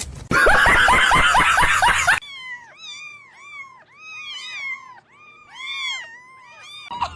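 A loud, harsh burst of noise lasting about two seconds, then a cat mewing over and over: a quick series of short rising-and-falling meows, several a second.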